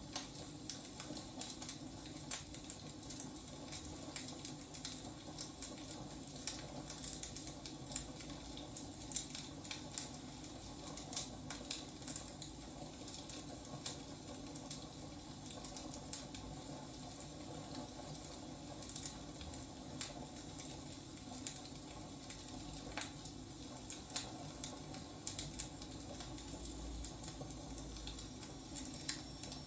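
Wood fire burning, with a steady low hiss and rumble and irregular sharp crackles and pops from the burning logs.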